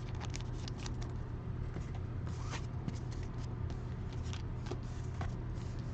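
Trading cards being handled and sorted by hand: scattered light rustles and soft clicks of card stock, over a steady low hum.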